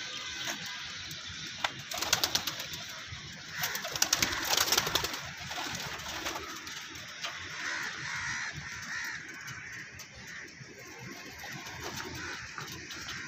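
Domestic pigeons cooing, with bursts of scuffling clatter about two seconds in and again around four to five seconds in.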